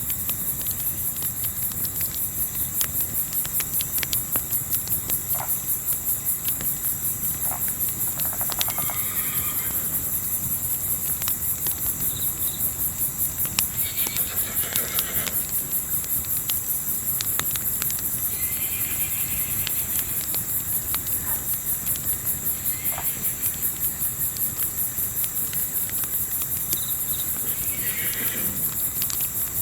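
Crickets chirping in a steady, fast-pulsing trill, with sharp crackles from a campfire scattered through it. A few short, faint animal sounds come and go over the top.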